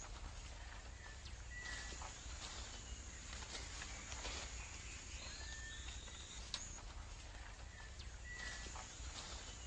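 Rainforest ambience: a steady insect hiss with short bird whistles scattered through it and a few faint clicks.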